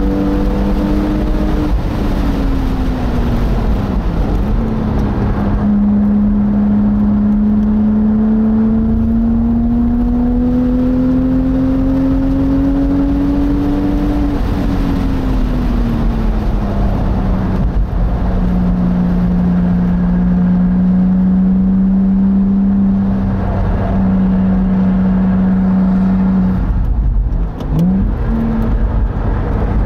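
Porsche Boxster's flat-six engine heard from inside the open cockpit at track speed: the note climbs steadily through a long pull in one gear, drops away as the car slows for a corner, then holds steady, with a quick gear change near the end. Wind and tyre rush underneath throughout.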